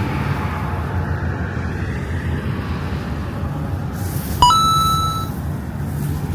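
A single bright metallic ding a little over four seconds in, ringing for about a second over a steady low rumble.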